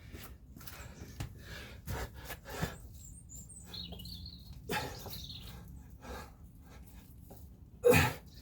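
Thuds of feet and hands landing on the floor during burpees and jump squats, a few scattered knocks with the loudest one near the end.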